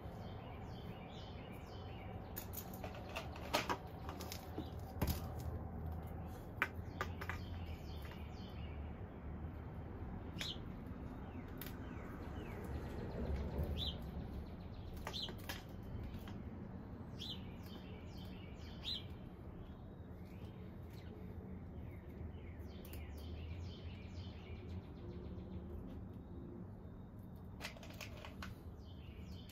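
Birds chirping in short repeated phrases over a steady low hum, with a few sharp clicks in the first several seconds.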